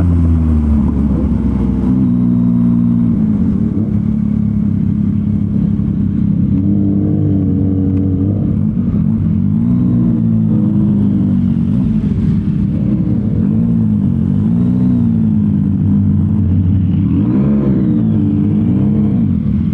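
Yamaha MT-09 inline-three engine through a Revoc SP full exhaust system, under way with the revs rising and falling every second or two as the throttle is opened and closed. The engine note drops at the start and climbs sharply, then falls again, near the end.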